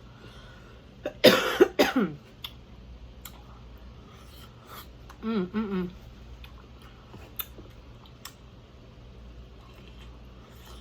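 A woman coughing, a few rough coughs in quick succession about a second in, while eating. Near the middle comes a short two-part voiced 'mm-mm', and small clicks of eating are scattered throughout.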